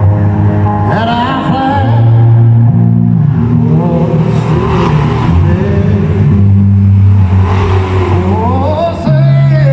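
Car engines revving hard, pitch rising and falling several times, over loud music playing through the arena's sound system.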